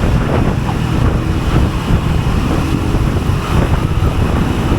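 Wind buffeting the microphone during a motorcycle ride, with the engine running underneath.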